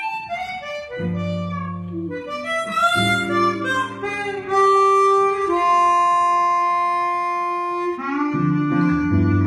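Live bossa nova music: a chromatic harmonica plays the melody over guitar accompaniment, with a long held note through the middle.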